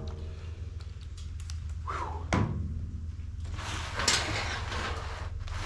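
Blower parts and tools being handled on a workbench: a single knock about two and a half seconds in, then rustling and scraping with small clicks, over a low steady hum.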